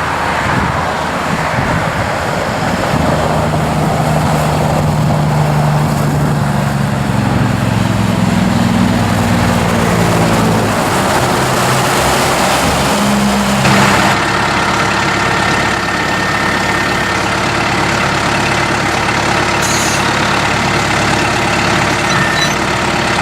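Kubota M7060's four-cylinder turbo diesel engine running, its pitch shifting and then dropping about ten seconds in. After an abrupt change partway through, it settles into a steady idle.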